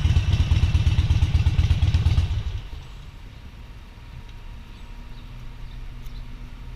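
Motorcycle engine running with a fast, low, pulsing beat, which drops away sharply a little over two seconds in, leaving a much quieter low rumble.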